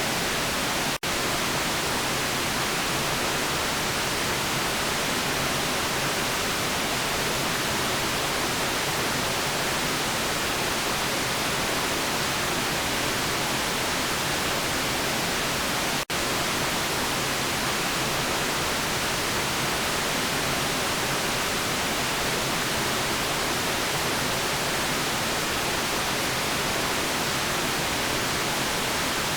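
Steady white noise, an even hiss with no changes in pitch or rhythm. It cuts out for an instant twice, about a second in and about sixteen seconds in.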